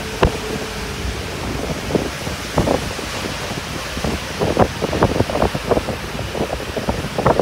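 Strong storm wind with heavy rain, gusts buffeting the microphone in repeated short rumbles over a steady hiss.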